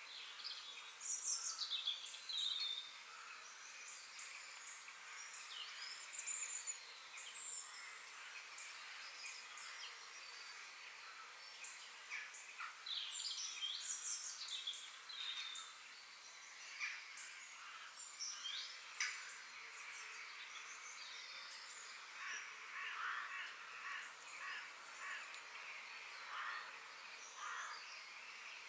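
Several songbirds chirping and calling, with short high notes and quick sweeps in pitch coming throughout, over a steady outdoor hiss.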